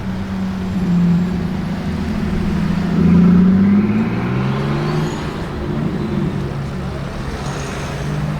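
Brabus-tuned Mercedes G-Wagon engine running at low revs and pulling away, its deep note rising to its loudest about three seconds in, then easing back.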